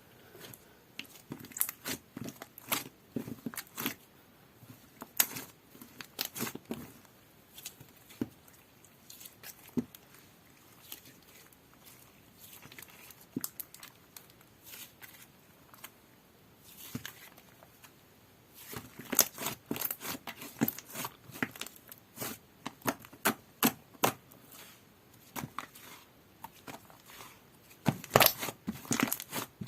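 Slime being squished and stretched by hand, making clusters of sharp clicks and pops with quieter stretches between, busiest in the second half and near the end.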